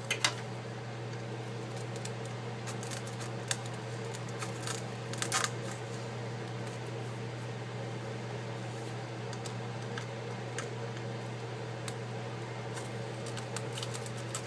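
Scattered light clicks and scrapes of small hand tools working on an iPad's frame, over a steady low hum. The clicks are clustered in the first half, with a couple near the end.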